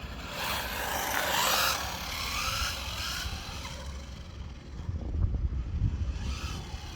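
Small WLtoys 144001 RC car with a brushed electric motor driving on a road: for the first few seconds a motor whine rises and falls in pitch over tyre hiss. About five seconds in, a louder low rumble comes in for a couple of seconds.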